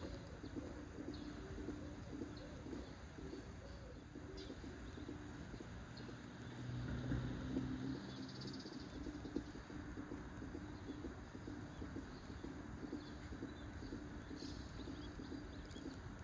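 A dove cooing in repeated low notes, with a few brief, high bird calls here and there. A low hum swells for a few seconds in the middle.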